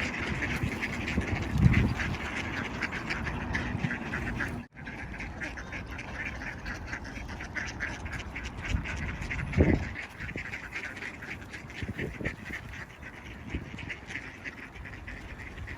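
A flock of mallard ducks quacking continuously, many calls overlapping in a noisy chatter, with a brief break about five seconds in.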